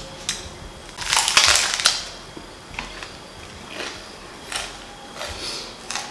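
Crunching of a raw green onion being bitten and chewed: one loud crunch about a second in, then several shorter, softer chewing crunches.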